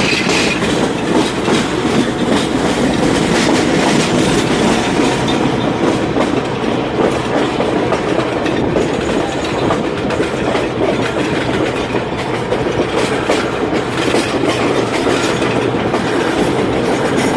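Passenger train running along the track, wheels clattering over the rails: a steady, loud rumble with a dense rattle of clicks.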